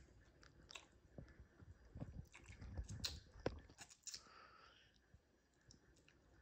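Faint mouth sounds of someone chewing and slurping instant noodles: small wet clicks and soft thumps, busiest in the middle, then a short breathy hiss about four seconds in.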